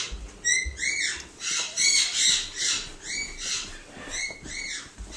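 Pet parrot giving short, repeated high chirps that rise and fall in pitch, about two a second.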